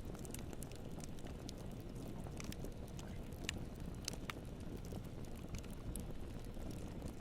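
Campfire burning, with a steady low rumble of flames and frequent sharp crackles and pops from the wood, irregularly spaced.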